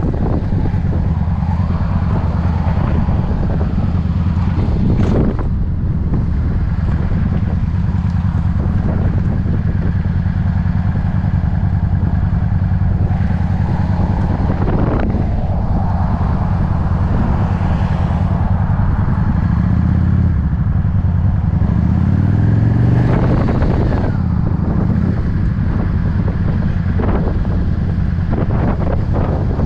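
V-twin cruiser motorcycle engine running at road speed, with wind rushing over the microphone. The engine note climbs briefly about twenty seconds in.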